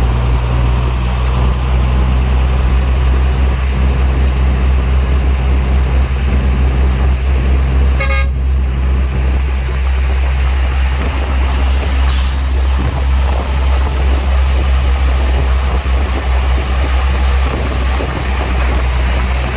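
Heavy diesel engine of earthmoving machinery running steadily with a deep drone, interrupted by a brief sharp sound about eight seconds in and another short one about twelve seconds in.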